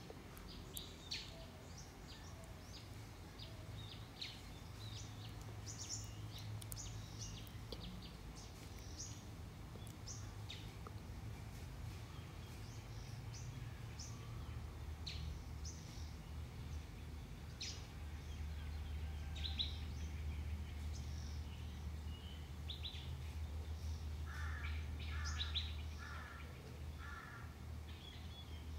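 Faint birds chirping in short, scattered high calls, over a low steady rumble that grows stronger in the second half. Near the end one bird gives a run of about five repeated notes.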